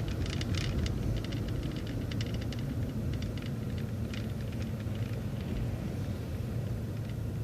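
Inside a city transit bus on the move: a steady low engine drone, with frequent light rattles and ticks from the cabin.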